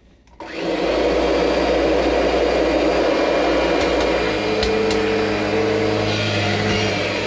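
Kirby G5 upright vacuum switched on, its motor spinning up to full speed within about a second and then running steadily. About four seconds in, a lower steady hum joins the motor noise, with two short clicks just after.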